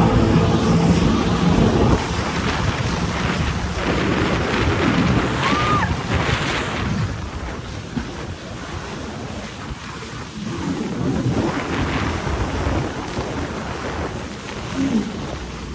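Wind buffeting the microphone and water rushing while riding on a jet ski. The jet ski's engine is heard as a steady drone in the first two seconds, then fades under the wind and water.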